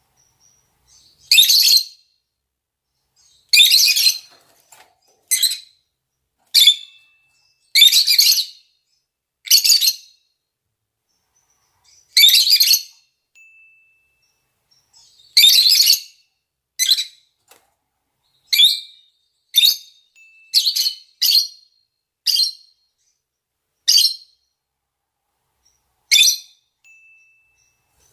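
Lovebirds (rosy-faced and Fischer's), male and female, giving short, high-pitched calls as mating calls. About sixteen separate calls come at irregular intervals, with silence between them.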